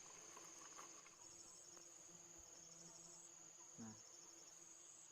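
Near silence with faint, steady, high-pitched insect chirring, and a brief low sound about four seconds in.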